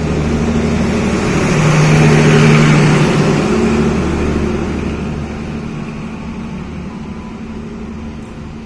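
A diesel-hauled train passing through the station: a low steady engine hum under wheel and rail noise, building to its loudest about two and a half seconds in, then fading gradually as it moves away.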